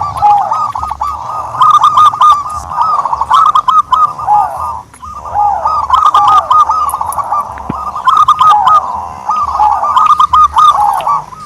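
Dove calling in long runs of quick, rising-and-falling cooing notes, repeated phrase after phrase with short pauses between them.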